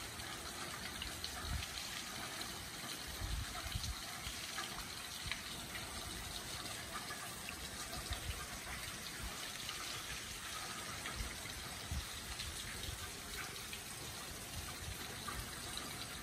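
Steady rain falling on paving and leaves, a continuous hiss with many small drip ticks. Occasional low thumps now and then.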